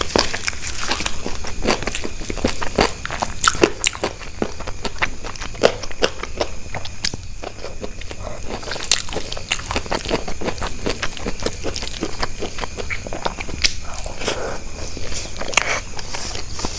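Close-miked eating: a person biting and chewing crunchy food, with a dense, irregular run of sharp crunches and wet clicks.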